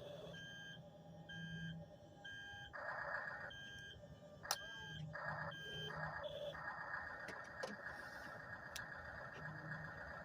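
Remote-control toy bulldozer beeping its reversing alarm, four beeps about a second apart, then a sharp click and the steady whir of its motors running from just past the middle on.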